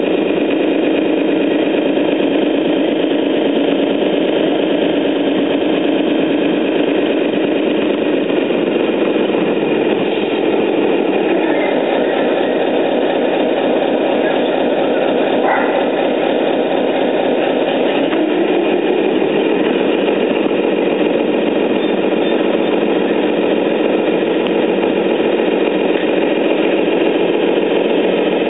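Radio-controlled Scania 10x6 truck model running, a steady engine-like drone that rises in pitch about eight seconds in and again near eighteen seconds.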